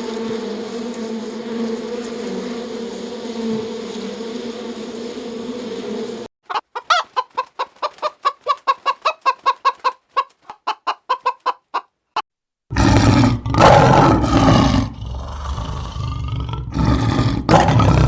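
A string of animal sound clips. First a steady buzzing hum like a swarm of insects, then a quick run of short clucking calls, about four or five a second, as from a hen. From about 12 s in comes a loud, harsh animal call in several bursts.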